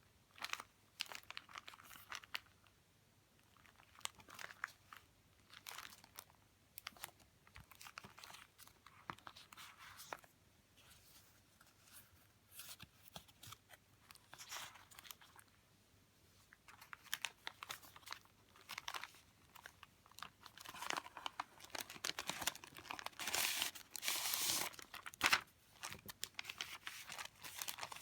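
Paper stationery and plastic pocket sleeves being handled, rustling and crinkling in short irregular bursts, busiest and loudest in the second half.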